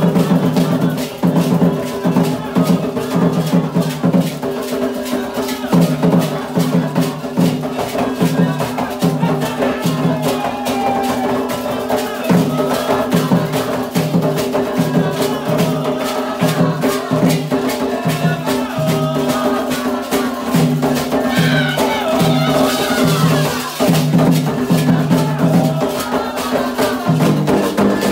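Candomblé ritual music: hand drums beating a steady repeating rhythm under a continuously shaken rattle, with voices singing over them.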